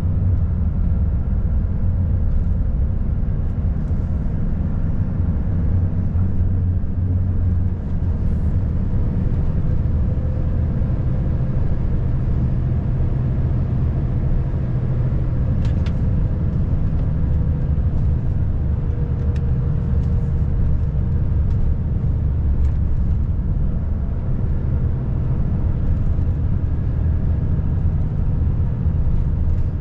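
Volvo FH540 truck's 13-litre straight-six diesel engine running under way, a deep, even drone mixed with tyre and road noise. A few faint ticks come around the middle.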